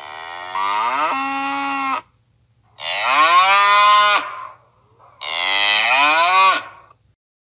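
Cow mooing three times: long, drawn-out moos with short gaps between them, the pitch rising as each call begins.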